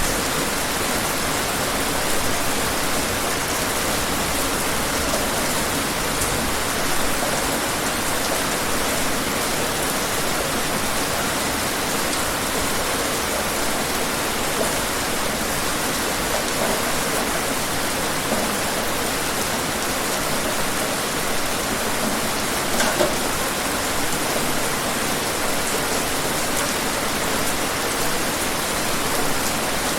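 Steady rain falling, an even hiss of many drops with a few distinct drop hits now and then.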